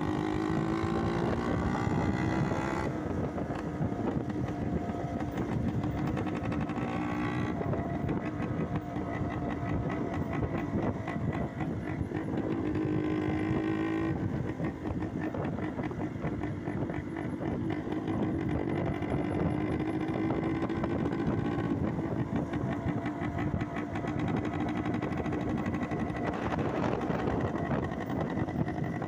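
Motorcycle engine running under way, its note climbing and then dropping sharply about 3, 7 and 14 seconds in, over a steady rushing noise.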